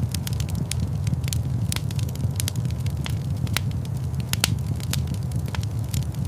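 Wood fire burning in a large stone fireplace: a steady low rumble with frequent sharp crackles and pops at irregular intervals.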